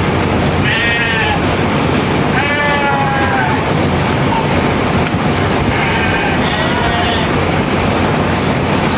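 Sheep bleating several times, in short wavering calls, over a steady loud rushing noise.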